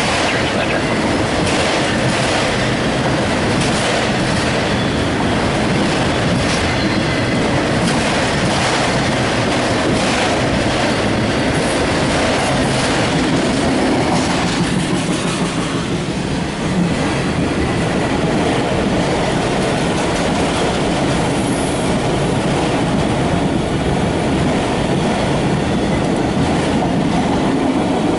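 Empty autorack freight cars rolling past close by, a steady loud rumble of wheels on rail with rhythmic clickety-clack from the rail joints and some wheel squeal.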